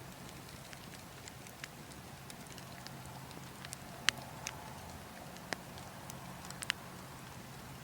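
Burning logs crackling, with sharp irregular pops, the loudest about four seconds in, over a steady low wind rumble.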